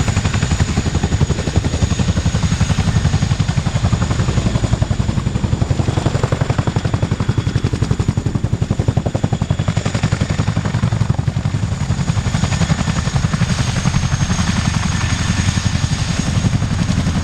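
RAF Chinook's tandem rotors beating with a rapid, steady blade slap, with a thin steady high whine above it.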